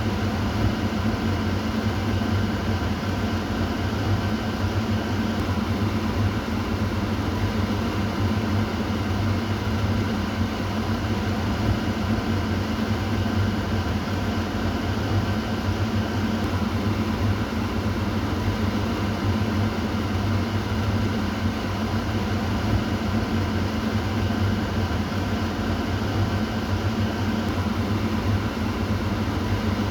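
Kitchen exhaust fan running steadily: an even rush of air over a low motor hum.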